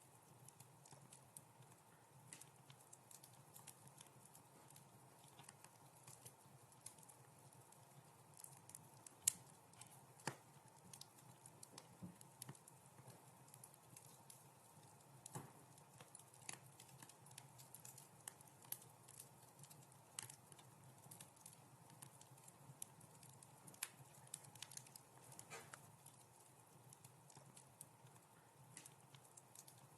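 Wood fire crackling quietly in a fireplace, with frequent small irregular pops and a few sharper snaps, the loudest about nine seconds in.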